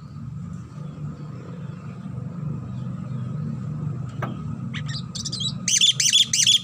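Javan myna calling: a few sharp notes about four seconds in, then a quick run of loud, harsh notes near the end, over a steady low hum.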